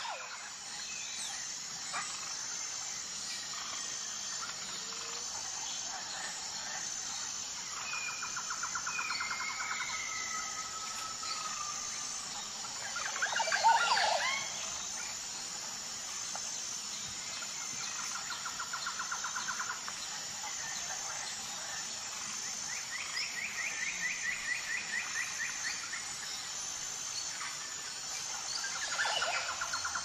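Woodland birdsong: several birds singing short, rapid trills every few seconds over a steady background hiss, with a louder burst of calls about fourteen seconds in.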